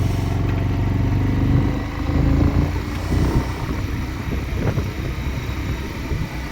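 Motorcycle engine running as it climbs a steep hill road, its steady note giving way to a rougher, uneven rumble about two seconds in.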